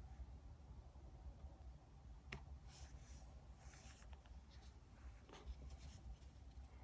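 Faint paper-and-stationery handling while decorating a diary: a sharp tap a little over two seconds in, then a few soft rustles and scratches, over a low steady room hum.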